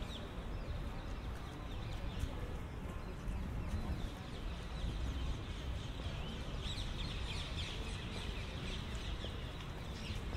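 Birds chirping, many short high calls that come thickest about two-thirds of the way through, over a steady low hum of city background noise.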